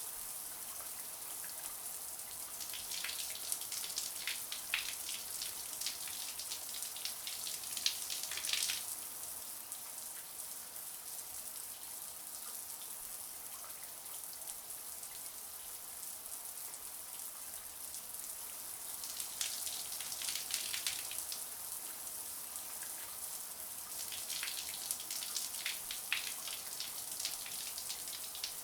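Shower water spraying and spattering onto a hard surface: a steady hiss with dense droplet splashes that thicken and thin in waves.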